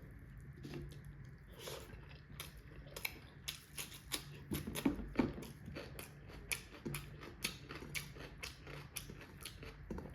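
A person eating close to the microphone: chewing with many small, quick wet clicks and smacks from the mouth, at a fairly low level.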